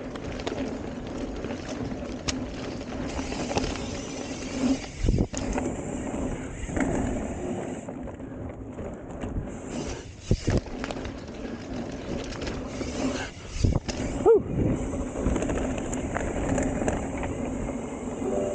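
Hardtail mountain bike riding a dirt jump line: tyres rolling on dirt with a steady hum and wind noise, broken by several thumps from landings and bumps, the loudest about fourteen seconds in.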